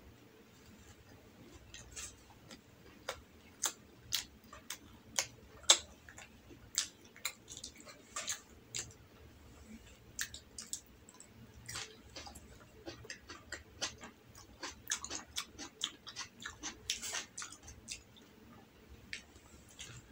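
Close-up chewing and wet mouth clicks and smacks of someone eating soft rolled omelette and tomato: irregular sharp clicks that come thickest in the later middle and thin out near the end.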